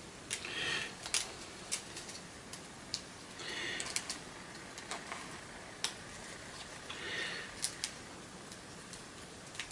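Copper wire being pulled and worked off a vacuum cleaner motor's wound coil by hand: scattered small ticks and clicks, with three short scratchy rasps as lengths of wire drag free.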